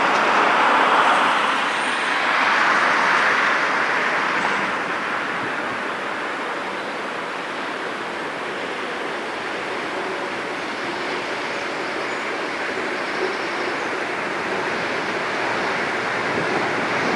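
Steady rushing vehicle noise with no clear engine note, louder for the first few seconds and then even.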